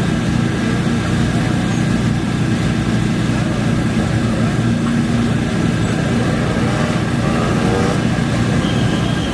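Off-road race motorcycle and quad engines running steadily, with a short rise in revs late on.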